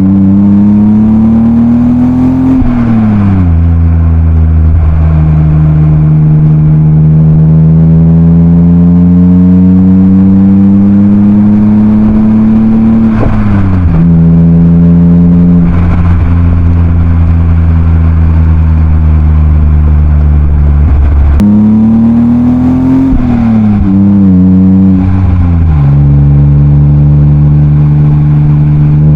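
BMW E36 328i's M52B28 2.8-litre straight-six engine and Schmiedmann rear silencer pulling through the gears. The engine note climbs steadily and drops at each upshift, about three seconds in and again about a third of the way through. Near the end it rises briefly, falls in steps and then runs at a steady pitch.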